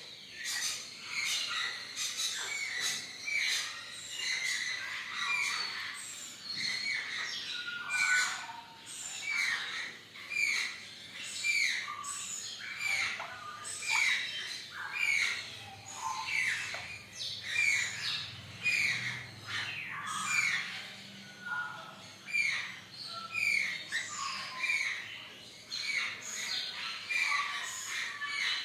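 African grey parrot squawking and chirping in a continuous run of short, sliding calls, about one or two a second.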